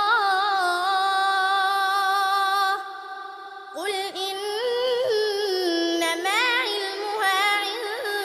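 A young girl's voice reciting the Quran in melodic tajweed style, drawing out long held notes with wavering ornaments. It breaks off for a breath about three seconds in, then resumes.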